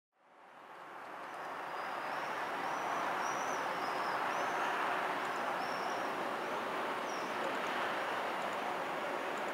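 A distant train approaching, heard as a steady even noise that fades in over the first couple of seconds, with birds chirping faintly above it.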